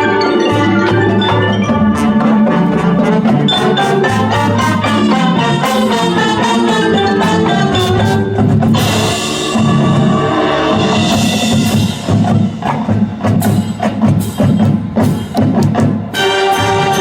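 A high school marching band playing its field show, with marimbas and other mallet percussion of the front ensemble prominent over the band. From about nine seconds in, a passage of sharp, choppy percussion hits.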